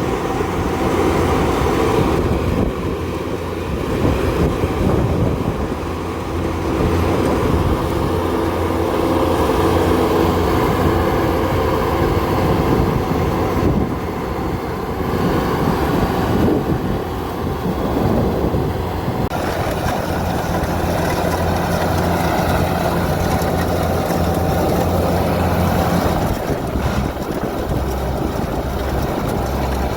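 Kubota DC70 combine harvester's diesel engine and threshing machinery running under load, a steady mechanical drone whose tone shifts a few times.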